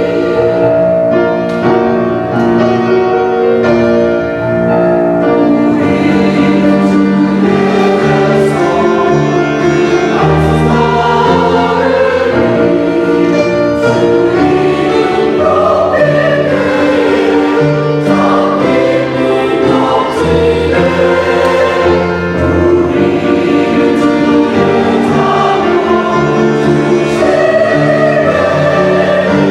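A church choir singing a sacred anthem in sustained, full harmony, with a low bass line underneath.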